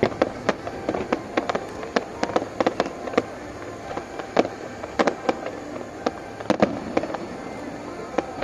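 Fireworks going off in a display: a rapid, irregular run of sharp bangs, some in quick clusters, with a few louder reports around the middle, thinning out near the end.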